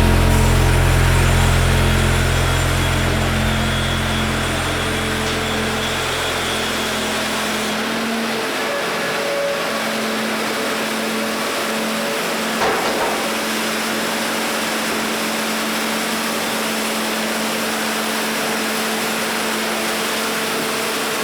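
Band sawmill running steadily on its 74 hp Kohler diesel engine, a constant hum over an even machine noise, with one brief knock about halfway through. Background music fades out over the first several seconds.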